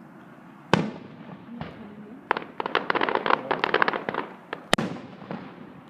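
Aerial fireworks bursting: a sharp bang about a second in, then a quick string of crackling pops, and another sharp bang near the end.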